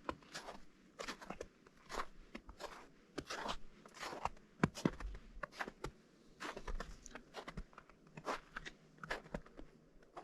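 Footsteps crunching on partially melted spring snow, a steady walking pace of about two steps a second, each step a short crackly crunch.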